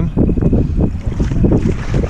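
Wind buffeting the microphone on a fishing boat, a loud low rumble mixed with boat and water noise and a few short knocks.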